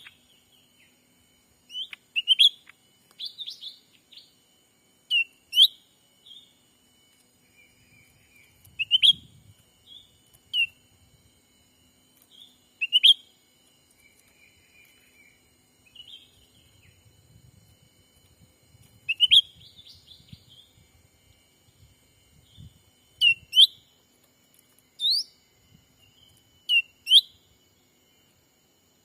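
Cucak ranting calls: short, sharp up-slurred whistled chirps, singly or in quick pairs, repeated every few seconds. A faint steady high tone runs underneath.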